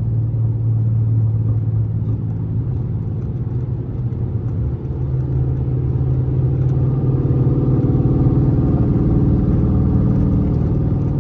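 Dodge SRT8 392's 6.4-litre HEMI V8 running rough while driving, with an uneven misfire that the owner has not yet traced and that has fuel-soaked, fouled spark plugs. The engine note swells a little about halfway through.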